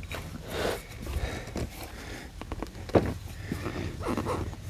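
Handling noises: rustling and scattered light clicks, with one sharper knock about three seconds in.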